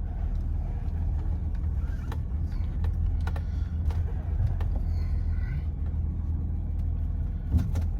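Engine of a 1988 BMW 528e, a 2.7-litre straight-six, running with the car creeping slowly in reverse: a steady low rumble with a few scattered light clicks.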